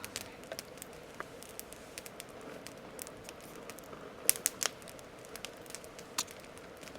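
Wood campfire crackling, with irregular sharp pops and snaps; a quick cluster of louder pops comes a little past four seconds in.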